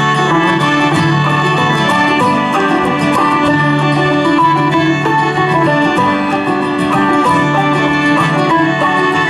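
Acoustic bluegrass string band playing an instrumental break between sung verses, with plucked strings carrying a steady rhythm.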